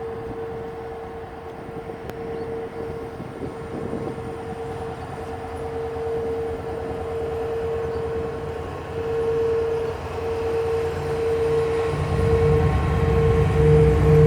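Diesel locomotives of a freight train pulling away, with a steady whine throughout. A deep engine rumble grows steadily louder and comes in strongly near the end as the locomotives draw near.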